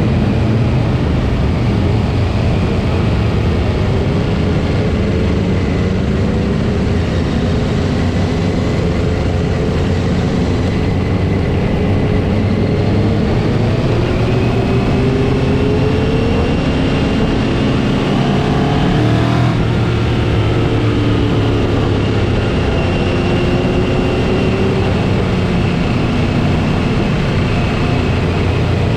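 Motorcycle engines running on the move in a group ride, over a steady low rumble. Their pitch rises and falls repeatedly as the bikes accelerate and ease off.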